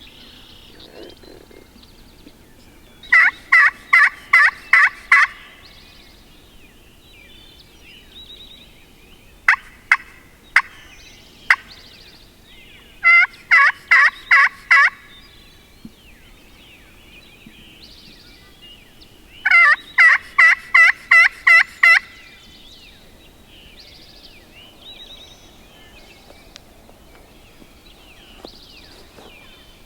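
Hen turkey yelps made on a hunter's turkey call: three loud runs of seven or eight yelps each, with a few single notes between them.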